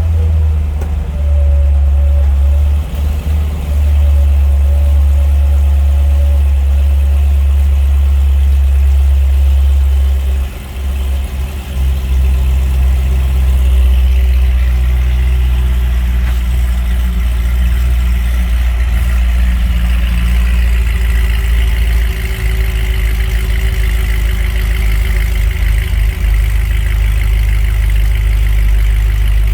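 2006 Corvette Z06's 7.0-litre LS7 V8 idling steadily just after a cold start, with a low exhaust note. The sound dips briefly about ten seconds in.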